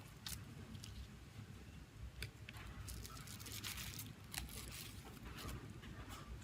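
Faint scratching, crinkling and light clicks from hand work on a smartphone's parts, over a low hum.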